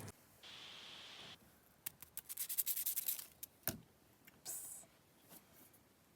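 Handling noises from kitchen work: about a second of rubbing or scraping, then a quick run of small clicks and crackles, a single knock a little after the middle, and a short hiss.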